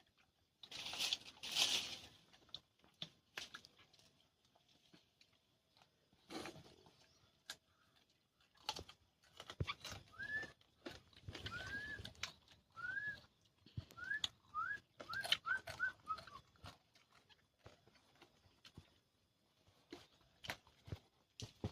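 Close eating sounds of raw fruit being chewed: crunching, clicks and smacks. From about ten seconds in a bird gives a run of short rising chirps that come faster toward the end.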